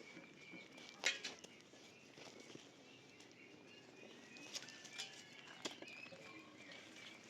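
Quiet outdoor ambience: faint bird chirps with a few sharp clicks, the loudest about a second in.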